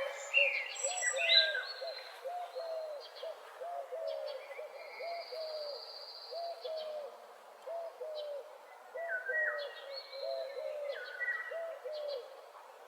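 Morning birdsong: one bird repeats short, low hooting notes at a steady pace, while other birds sing higher chirping and whistled phrases over it. The higher songs are loudest in the first couple of seconds.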